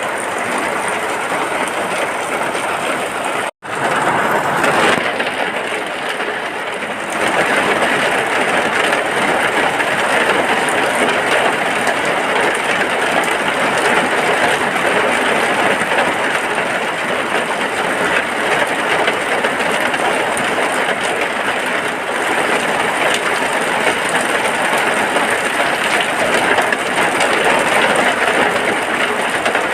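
Steady heavy rain, a dense even hiss, broken by a brief cut to silence about three and a half seconds in.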